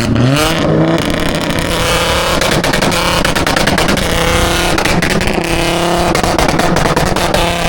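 Car engine revved hard through a loud exhaust: the revs climb sharply in the first second, then are held high with a rapid crackle. It is loud enough to hurt the ears.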